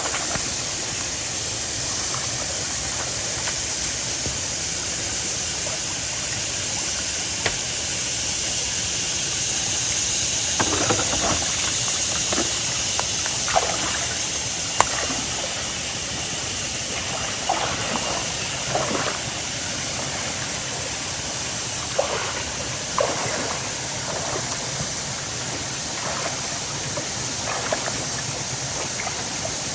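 Creek water running steadily, with scattered splashes and knocks from about ten seconds in.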